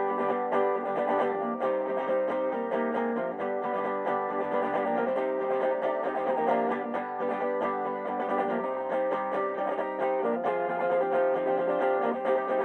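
Acoustic guitar playing an instrumental passage of a song: a steady flow of picked and strummed chords.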